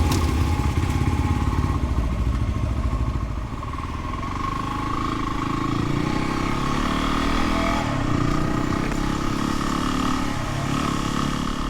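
Dual-sport dirt bike engine running while riding, its pitch rising and falling as the throttle changes.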